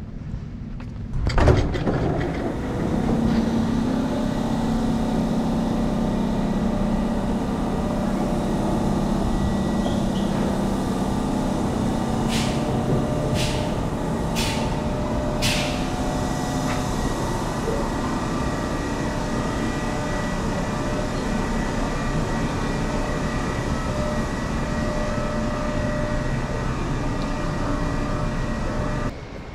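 A large vehicle running steadily with a low hum, starting suddenly after a loud knock about a second in. Four short hisses come near the middle, and the sound cuts off near the end.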